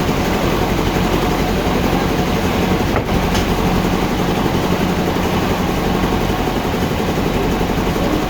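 Sawmill machinery running: a loud, steady mechanical noise with a low hum underneath.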